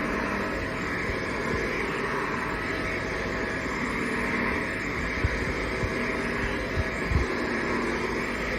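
Hoover HL4 upright vacuum cleaner running steadily, its motor giving a constant hum, with a few dull low knocks about five and seven seconds in.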